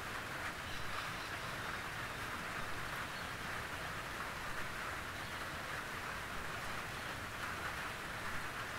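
Steady gentle rain pattering on a tin roof, a dense even patter of many small drop ticks on the metal.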